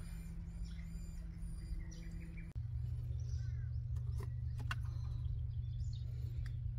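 Small birds chirping now and then over a steady low background rumble that shifts abruptly about two and a half seconds in, with a few soft clicks in the middle.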